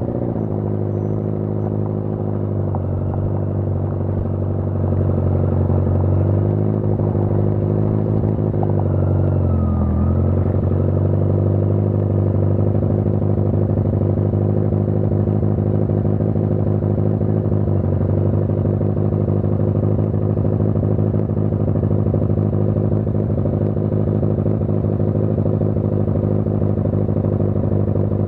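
1981 Yamaha XJ650 Maxim's air-cooled inline-four engine running at a steady low speed. It gets a little louder about five seconds in, and its pitch drops briefly and comes back up about ten seconds in.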